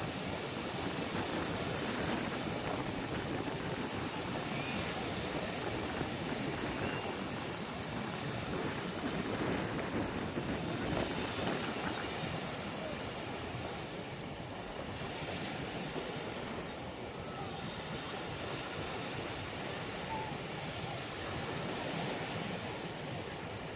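Sea waves washing onto a beach: a steady rushing noise of surf that eases slightly about halfway through.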